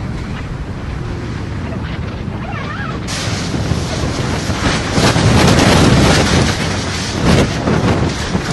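Strong tornado-storm wind buffeting the microphone in a loud, rushing roar. It turns harsher about three seconds in and is loudest around the middle.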